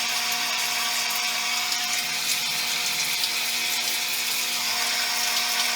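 A small electric motor running with a steady whir and hiss. It cuts off abruptly near the end.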